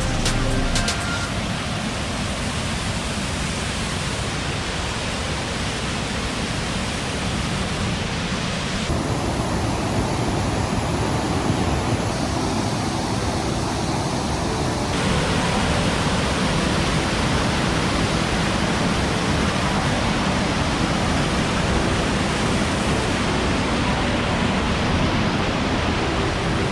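Waterfall rushing up close: a loud, steady wash of falling water. Its tone changes abruptly about a third of the way in and again just past halfway.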